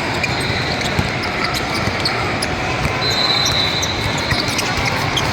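A basketball being dribbled on a gym court, with short high sneaker squeaks over steady background noise in the gym.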